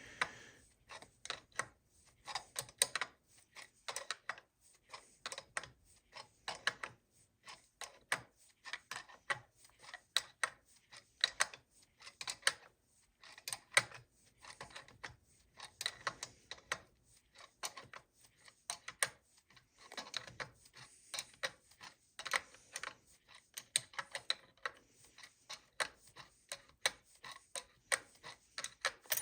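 Socket ratchet clicking in short bursts of rapid clicks with brief pauses between them, as the nut on a cam bearing puller is tightened to draw the old cam bearing out of a Harley-Davidson Evolution engine.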